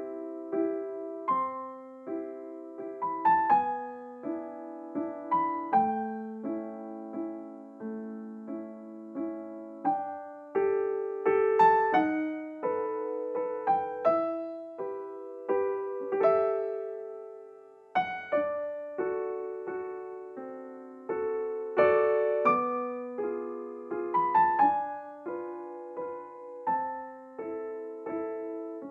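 Soft solo piano music, slow chords and melody notes each struck and left to ring out.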